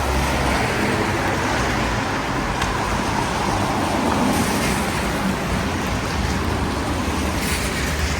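Road traffic on a rain-wet street: car engines and tyres hissing on the wet road, a steady wash that swells slightly about four seconds in.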